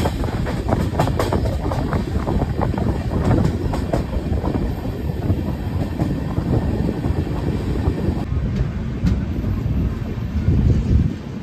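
Indian Railways passenger train running on the track, heard from the open doorway of a coach: a steady wheel-on-rail rumble with quick clicks from the wheels, strongest in the first few seconds. About eight seconds in, the sound shifts as the train rolls into the station.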